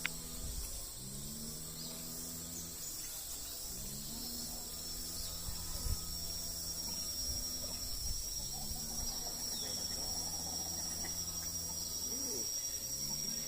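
Insects, crickets or cicadas, trilling in a steady high drone. A low hum underneath swells up in pitch and holds, repeating about every three seconds.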